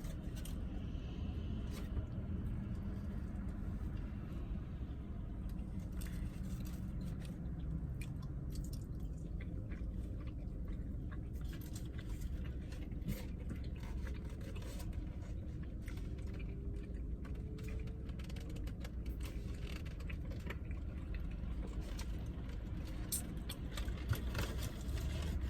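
Close-up chewing and crunching of food, with scattered small clicks, scrapes and rustles, over a steady low hum inside a car.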